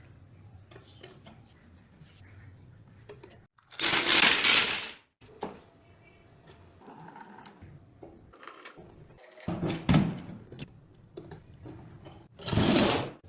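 Metal mechanism of an antique chaff cutter clicking and knocking, with three loud rasping bursts about a second long each.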